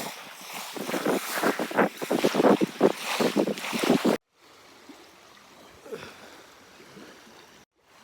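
Wind buffeting the microphone over breaking surf on a beach, loud and gusty for about four seconds. It then cuts abruptly to a much quieter stretch of faint surf.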